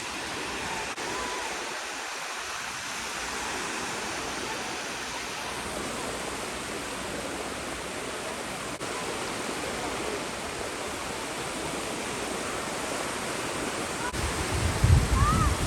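Steady wash of surf on a sandy beach. Near the end, wind buffets the microphone in low thumps.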